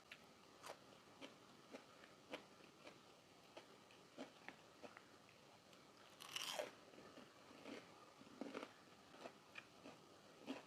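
Faint sounds of a person chewing crunchy food: soft crunches and clicks a couple of times a second, with a louder, longer crunch about six seconds in.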